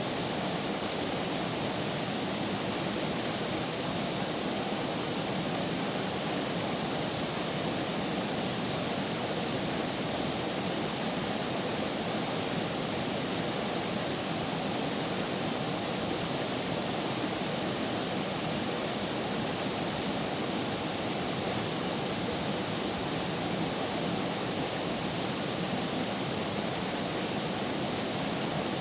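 Flowing river water rushing steadily, an even unbroken noise.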